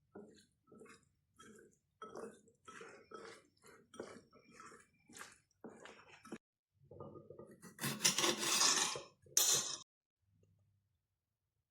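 A person chewing mouthfuls of chicken taco: a run of short, irregular chewing sounds, then a louder, noisier stretch near the end.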